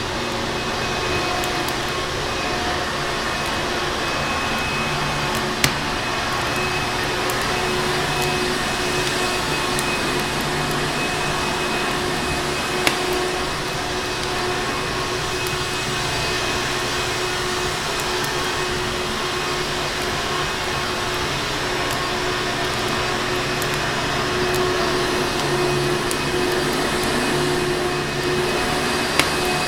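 Vacuum cleaner running steadily, its motor giving an even rushing noise with a constant hum. Three sharp pops, like a wood fire crackling, stand out over it at widely spaced moments.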